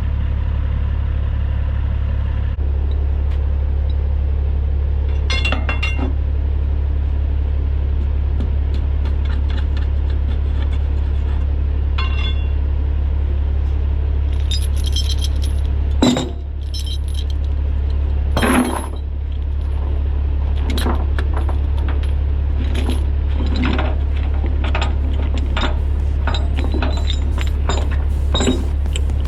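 Heavy truck's diesel engine running with a steady low drone, overlaid with light jingling and clinking rattles. Two sharp knocks come a little past halfway, about two seconds apart.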